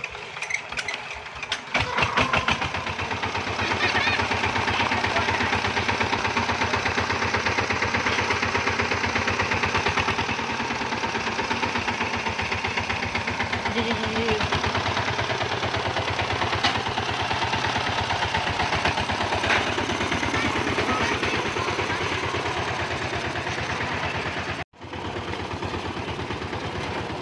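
Two-wheel hand tractor (kouyon) engine running with a steady, rapid chugging pulse. It gets louder about two seconds in, and there is a brief sudden dropout near the end.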